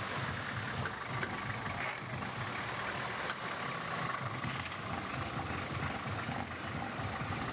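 Engine of an off-road 4x4 running at low speed as it maneuvers slowly, a steady low rumble.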